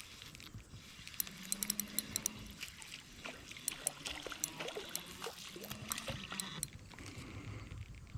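A hooked bluegill splashing and dribbling water at the surface as it is reeled in on light tackle, with many short light clicks and ticks scattered throughout.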